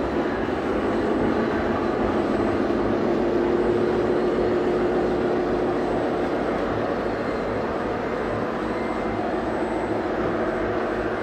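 Radio-controlled model vehicle running: a steady mechanical drone with a whine that holds a steady pitch and is strongest a few seconds in.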